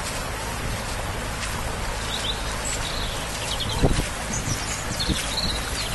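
Small birds chirping over a steady, loud rushing noise, with a single thump about four seconds in.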